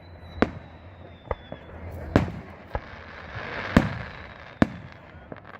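Fireworks shells bursting: about seven sharp bangs at uneven intervals, with a hissing swell in the middle and a thin high whistle in the first second and a half.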